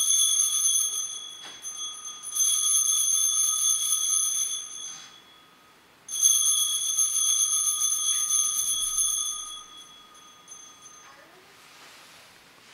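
Altar bells rung at the elevation of the consecrated host: a ring already sounding at the start, then struck again about two seconds in and about six seconds in. Each time it is a high, bright ringing of several tones that fades away over three to four seconds.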